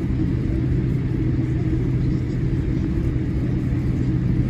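Boeing 787-8 cabin noise while taxiing: a steady low rumble of the engines at taxi power and the rolling airframe, with a steady low hum.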